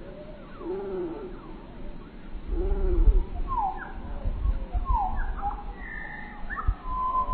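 Birds calling: low, arched cooing notes repeat about every second and a half, then higher whistled calls with quick downward slides, ending in one held whistle. A deep rumble underneath is the loudest thing for a couple of seconds in the middle.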